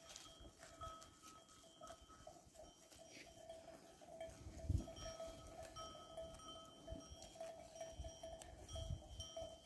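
Livestock bells on a grazing herd ringing faintly and unevenly, the clanks coming in quick, broken runs. A low thump about halfway through.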